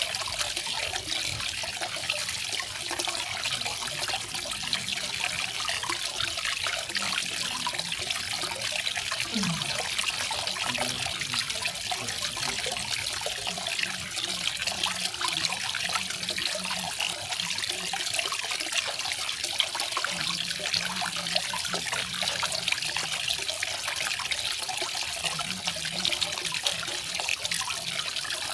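Garden waterfall: water falling and splashing in a continuous, even rush.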